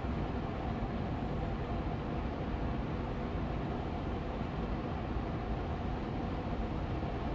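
Austin Air Allergy Machine air purifier fan running steadily on medium speed: an even rush of air with a gentle hum.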